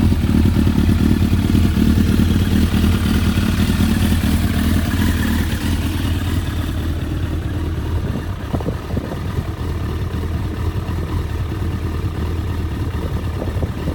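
1998 Suzuki GSX-R1100's inline-four engine running at a steady idle through a full titanium Akrapovic 4-2-1 exhaust. About halfway through it settles a little lower and quieter.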